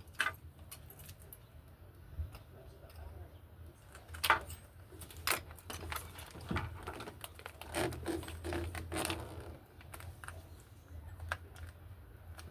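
Scattered clicks and clinks of tools or small parts being handled, the loudest about four, five and nine seconds in, over a steady low hum.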